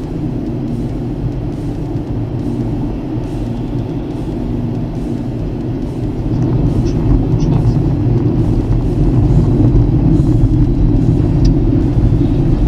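Car engine and road noise from a moving car, a steady low rumble that grows louder about six seconds in.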